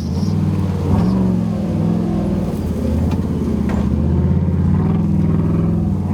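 Nissan GQ Patrol winch truck's engine running, its revs rising and falling a little under load.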